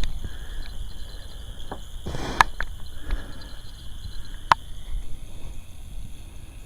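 Wind buffeting the microphone with a low rumble, broken about two seconds in by a short rustle and then two sharp clicks about two seconds apart.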